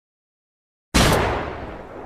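A single weapon sound effect: one loud blast about a second in, dying away over about a second with a deep rumbling tail, then cut off abruptly.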